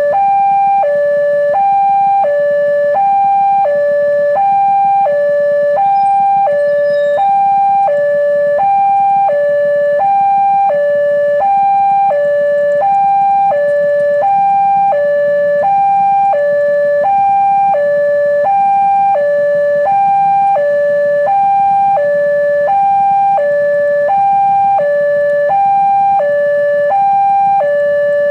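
Railway level-crossing warning alarm: an electronic two-tone signal alternating between a lower and a higher note, each note lasting about half a second, in an unbroken even rhythm. It is the signal that a train is approaching the crossing.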